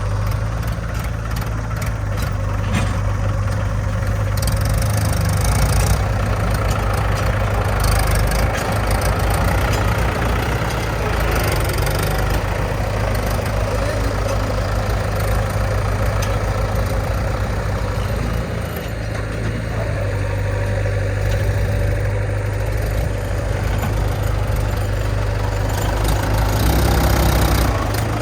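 Diesel engines of a JCB 3DX backhoe loader and farm tractors running steadily, a low engine drone that swells and eases a little now and then.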